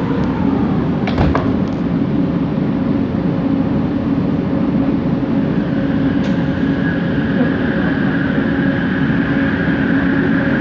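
Bombardier Innovia ART 200 metro train running, heard from inside a carriage: a steady rumble with a humming motor tone, and a higher whine that comes in about halfway through. There is a short clack about a second in.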